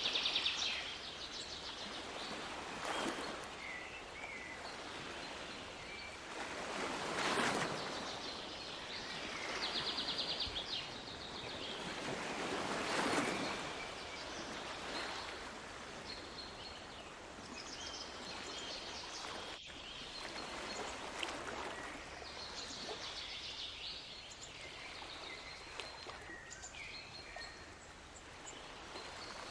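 Waves washing on a shore in slow swells every few seconds, with birds chirping and trilling over them.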